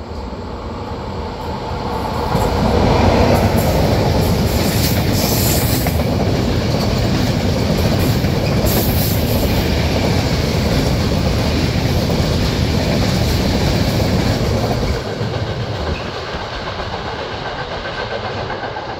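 A freight train hauled by an FS E652 electric locomotive passes fast, pulling a string of flat stanchion wagons loaded with iron sections. The rumble and rattle build over the first three seconds, stay loud, and drop off about fifteen seconds in as the last wagons go by.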